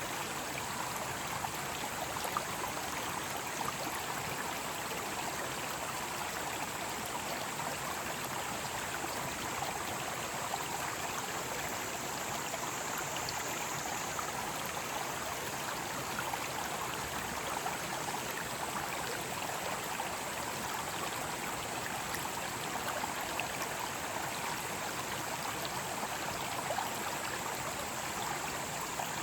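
Mountain stream rushing steadily over rocks, an even wash of running water. Cicadas keep up a high, steady drone in the background, fainter in the middle.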